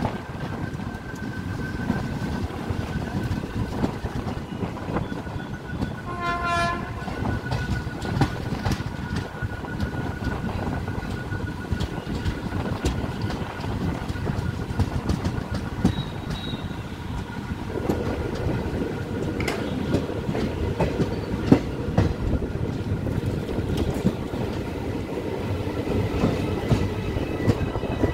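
Running noise of a passenger train heard from an open coach door: steady rumble and wind with the clickety-clack of wheels over rail joints. A short locomotive horn blast sounds about six seconds in, and the running noise grows fuller a little past halfway.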